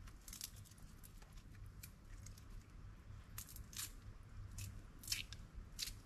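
Leaves being handled and torn by hand: a faint scatter of irregular sharp crackles and rustles over a low rumble.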